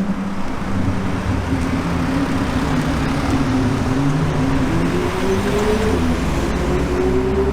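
Car engine accelerating, its pitch climbing steadily, with a short drop about six seconds in like an upshift before it climbs again, over steady road and tyre noise.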